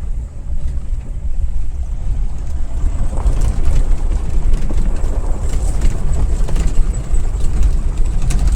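Low, steady rumble of a moving car heard from inside the cabin: engine and road noise, with scattered light rattles from about three seconds in.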